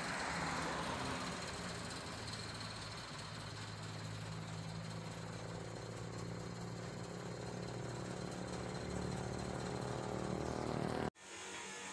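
Truck engine idling steadily, cutting off abruptly about eleven seconds in, after which only a faint hum remains.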